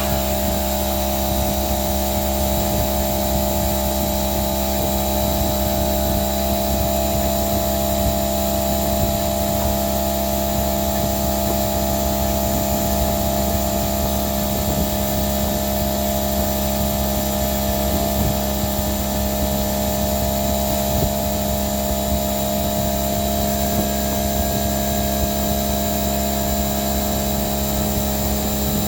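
An electric woodworking power tool's motor running steadily at constant speed, with a strong even hum and whine.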